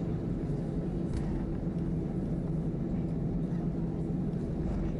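Steady cabin noise of an Airbus A319-111 taxiing in after landing: its CFM56 engines at idle and the cabin air system give an even low hum with a couple of steady droning tones.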